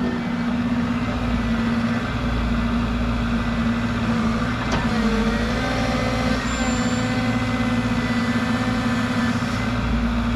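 Bobcat E60 excavator's diesel engine running steadily, its pitch sagging briefly about five seconds in.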